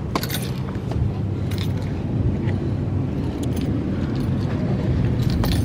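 Car cabin road noise while driving: a steady low rumble of engine and tyres, with a few faint clicks and rattles.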